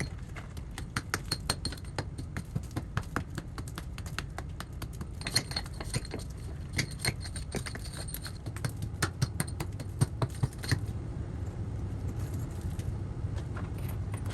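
Metal hand tool picking and scraping crumbling mortar out of a fieldstone wall: quick, irregular clicks and knocks of metal on stone and grit, some with a short metallic ring, with bits of mortar and small stones knocked loose.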